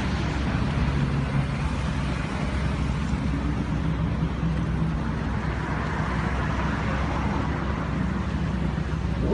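A supercar's engine running steadily at low speed, a deep even engine note with no revving.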